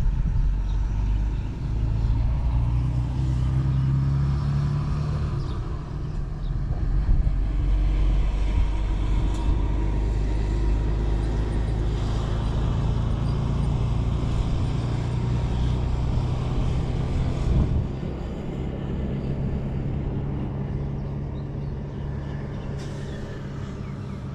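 An engine running steadily with a low hum, easing slightly about three-quarters of the way through.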